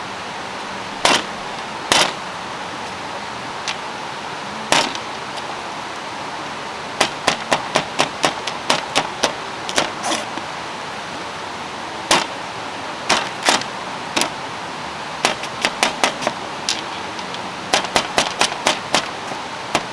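Meat sizzling on a grill, with fat popping and crackling: sharp, irregular pops over a steady sizzle, sparse at first and coming thick and fast from about a third of the way in.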